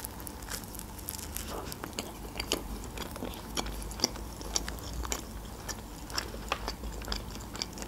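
Close-miked chewing of a bite of toasted sandwich: soft mouth sounds with many scattered crisp crackles and clicks.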